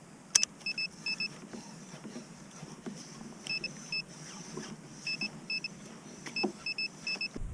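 Short high electronic beeps in quick pairs and threes, repeating in groups, from a kayak fish finder's alarm, with a sharp click about half a second in.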